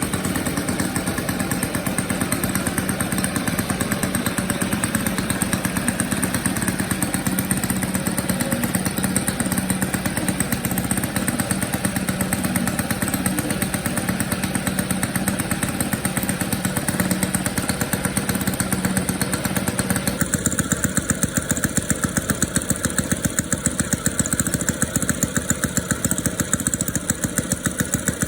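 YS FZ-120 four-stroke glow model aircraft engine, fitted with a Saito muffler, running steadily with an even firing pulse. About twenty seconds in its note changes and the individual firing pulses stand out more distinctly.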